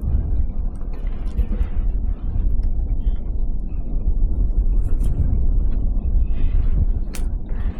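Wind buffeting the microphone: a loud, fluttering low rumble, with scattered small clicks and knocks over it.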